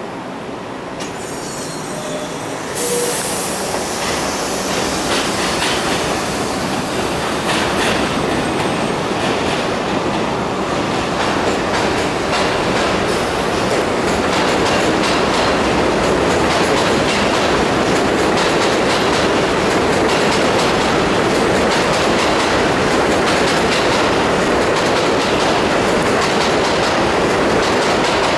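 R62A subway train on the 7 line pulling out of the station and picking up speed. It grows steadily louder, with its wheels clicking over the rail joints.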